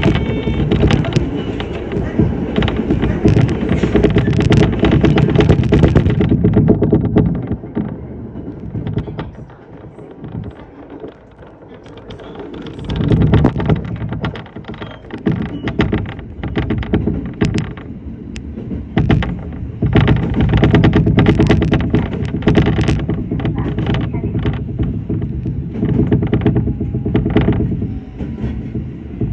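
Running noise of a Shinano Railway SR1 series electric train, a low rumble of wheels on rail with frequent clicks and knocks from the track. It eases off for a few seconds about a third of the way in, then rises again.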